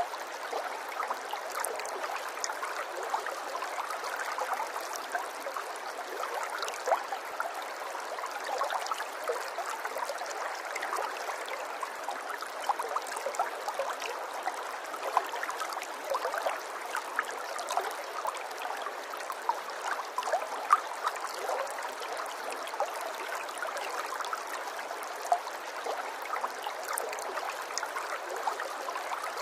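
Running water, a small stream trickling and gurgling steadily, with many small plinks and splashes scattered through it.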